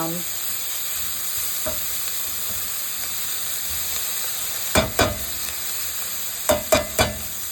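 Chopped onions sizzling steadily in oil in a pot as they are stirred. A utensil knocks against the pan once early, twice about five seconds in, and three times near the end.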